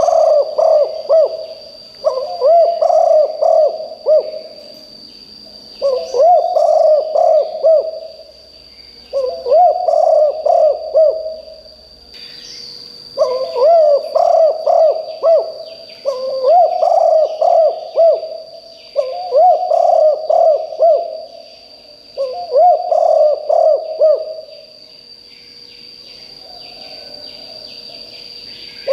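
Spotted dove cooing loudly. It gives repeated phrases of several rolling coo notes, about eight phrases, each roughly two seconds long, and falls silent for the last few seconds.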